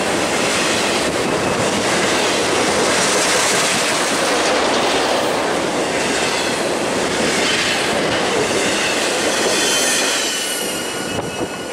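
BNSF intermodal freight train's cars rolling past close by at speed: a steady rush of steel wheels on the rails that fades off about ten seconds in as the last car passes.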